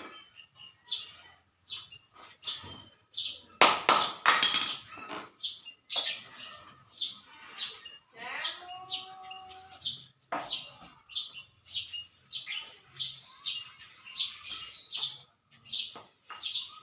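Small birds chirping over and over in short, sharp, high calls, a few louder bursts among them. About halfway through there is a brief held, pitched tone.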